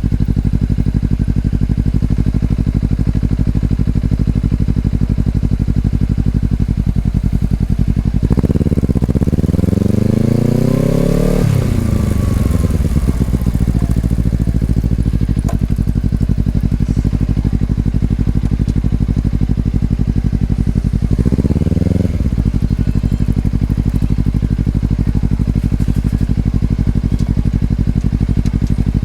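Exhaust of a Honda CBR250RR's parallel-twin engine through an Over Racing aftermarket exhaust, running at a steady low engine speed. About eight seconds in, it revs up with a rising pitch for about three seconds, then the pitch falls away. It revs briefly again about 21 seconds in before settling back to the steady note.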